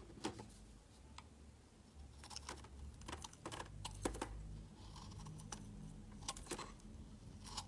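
A blade cutting into a bar of soap: a series of crisp, irregularly spaced clicks and snaps.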